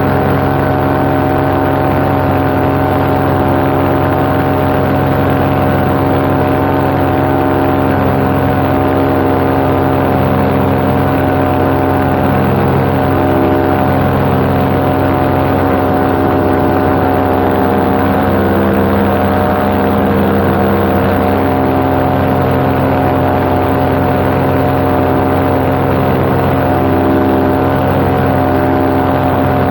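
Paramotor's two-stroke backpack engine and propeller running at a steady cruise throttle, a constant drone with a slow beating in its tone.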